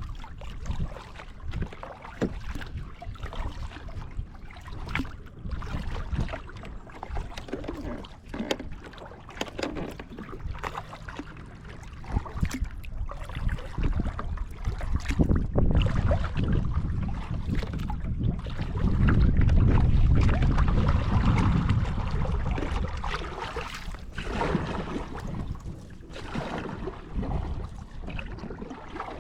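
Kayak paddling on a river: irregular water noise and small knocks, with wind rumbling on the microphone, loudest about two-thirds of the way through.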